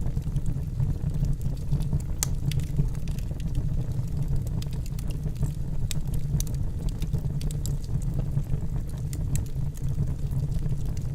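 Wood logs burning in a fireplace: a steady low roar of the flames with frequent irregular crackles and pops, a few of them sharper and louder.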